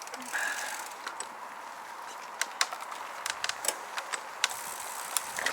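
Mountain bike rolling over a dirt trail: many sharp clicks and rattles over steady noise, with a brief chirp about half a second in.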